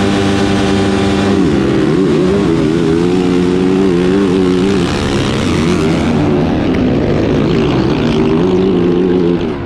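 Yamaha YZ450F motocross bike's four-stroke single-cylinder engine, held at a steady rev for about a second and a half, then revving up and down as the bike is ridden around the track.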